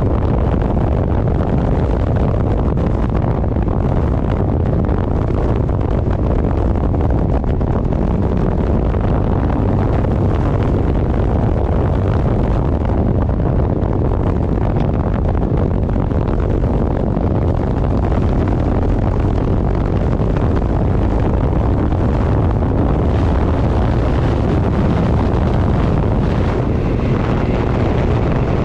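Steady, heavy wind noise buffeting the microphone on a motorcycle moving at speed, with no let-up.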